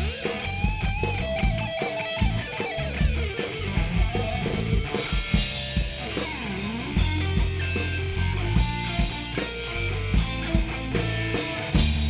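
Live rock band playing an instrumental break: an electric guitar lead line with bending, sliding notes over bass guitar and a drum kit.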